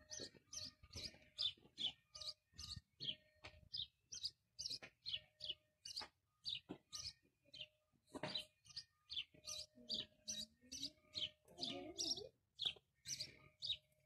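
A small songbird chirping over and over, short high chirps at about two or three a second in a steady, even series.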